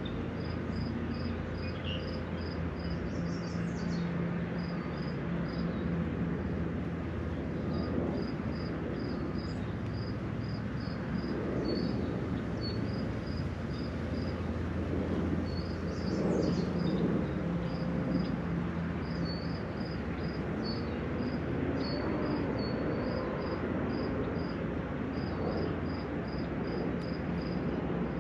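Steady rain hiss at a lake shore under a constant low rumble. Over it, a high chirp repeats evenly about two to three times a second, with short breaks, and a few brief bird chirps come in now and then.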